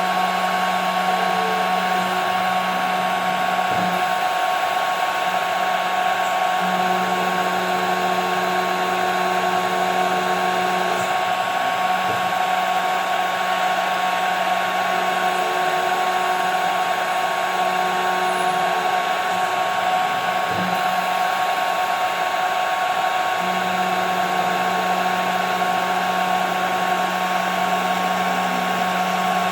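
CNC router spindle running steadily with a high whine and hiss while milling 5 mm plexiglass. A lower hum underneath shifts slightly in pitch every few seconds.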